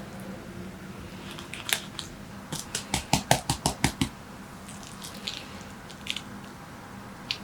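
Kitchen food-preparation knocks: a quick run of about eight sharp knocks at about five a second in the middle, with scattered lighter clicks before and after, over a faint steady hum.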